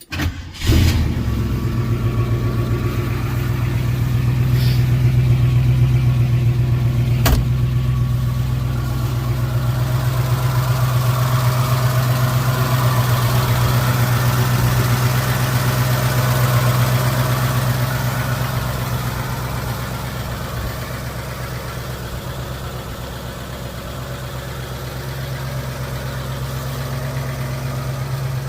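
1968 Mercury Cougar's 302 V8 starting about half a second in, after standing unused for a year or so, then idling steadily. There is a sharp click about seven seconds in.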